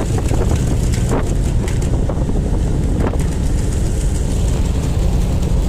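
Steady low rumble of ship diesel engines, with wind buffeting the microphone.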